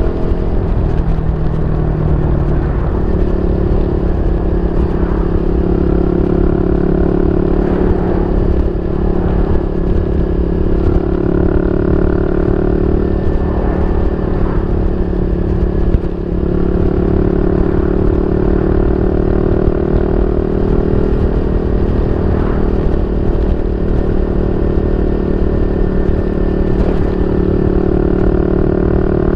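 Yamaha Y15ZR's 150cc single-cylinder four-stroke engine running steadily through a YY Pang SD3 aftermarket exhaust. Its pitch drops slightly about two seconds in, then holds level.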